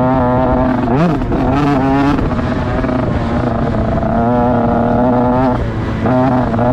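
Motocross dirt bike engine running hard at a high, steady pitch, with brief dips and rises in revs about one second in, again near two seconds, and shortly before the end.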